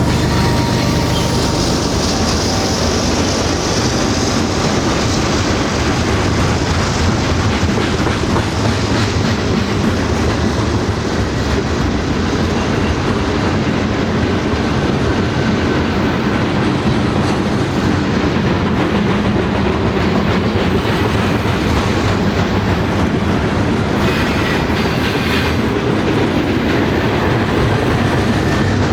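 Railcars rolling past with a steady, loud clickety-clack of wheels over the rail joints.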